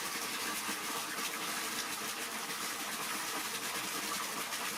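Water running steadily from a tap, a constant rushing hiss.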